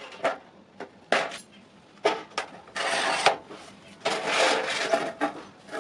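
Hand-tool work: a series of sharp knocks and clatters, with two longer rasping scrapes, one about three seconds in and one from about four to five seconds in.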